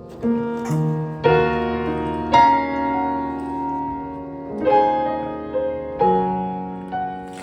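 Piano music: slow, held chords, a new chord struck every one to two seconds.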